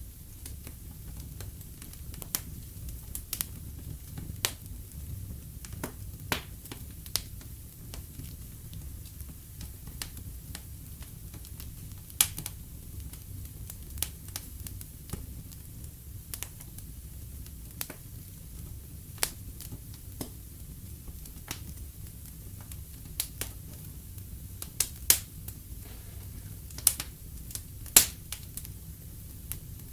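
Wood fire in a fireplace crackling, with irregular sharp pops every second or so over a low, steady rumble of the flames; the loudest pops come near the end.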